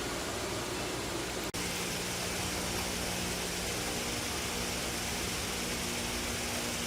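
Steady mechanical hum over an even hiss, broken by a momentary dropout about one and a half seconds in.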